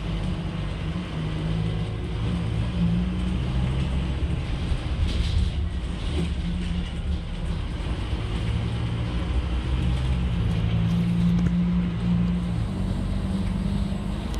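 Scania K310UB bus's diesel engine running under way, its low note stepping up and down in pitch as the bus speeds up and eases off, over road noise.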